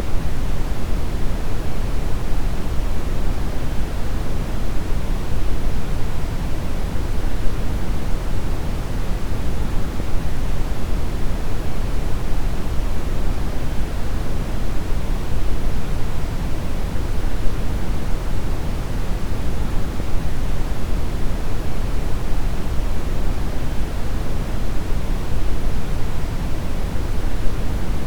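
Steady synthetic brown noise: a deep, even rumbling hiss, strongest in the bass and thinning toward the treble, with no changes.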